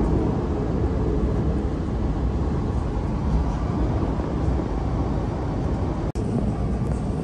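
Steady running noise of a KTM ETS electric train at speed, heard inside the passenger car: an even low rumble with a hiss above it. The sound cuts out for an instant about six seconds in.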